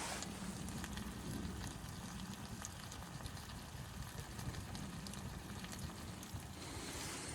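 Wood fire crackling with scattered sharp pops over a steady low rumble of wind, with a hissing gust swelling at the start and again near the end.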